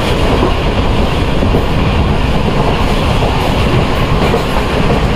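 Passenger train running along the track, heard from an open carriage doorway: a loud, steady rumble and clatter of the wheels on the rails.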